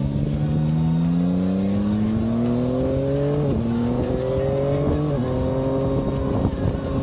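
Yamaha Tracer 9's three-cylinder engine pulling hard, its pitch climbing. There are two upshifts, about three and a half and five seconds in, where the pitch drops. After that it holds a nearly steady note.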